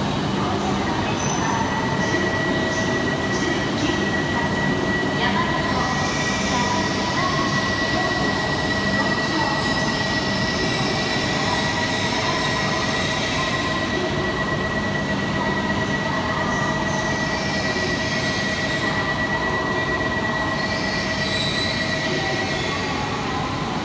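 E5 series Shinkansen train moving slowly along an underground station platform: a steady low rumble with a steady high squeal held over it, starting about two seconds in and dying away near the end.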